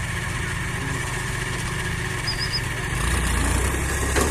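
HMT 4522 tractor's diesel engine running steadily; about three seconds in, its note drops deeper and gets a little louder.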